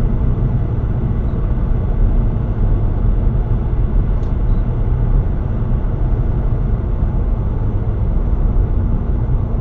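Steady low rumble of a moving car: road and engine noise without a break, with no crash or sharp impact.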